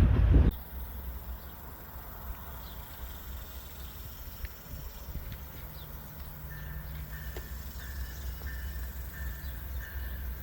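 Loud wind and train noise cuts off abruptly half a second in. It leaves quiet outdoor ambience: a low steady rumble and, from about six seconds in, a regular high chirping.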